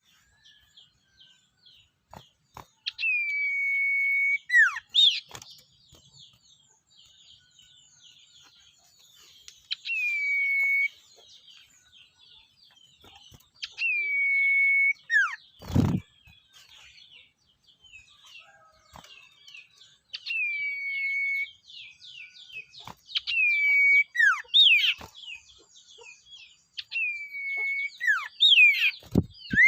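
Sirtu bird calling repeatedly: a loud whistle held steady for about a second, followed by quick downward-slurred notes, recurring every few seconds over faint fast chittering. A single dull thud sounds once about midway.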